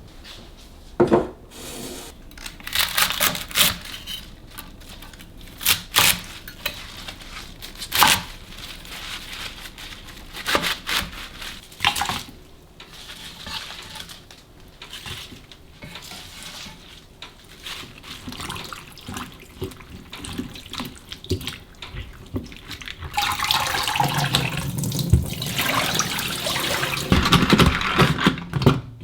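Kitchen sink work: scattered clinks and knocks of things being handled, then a tap running steadily for about five seconds near the end.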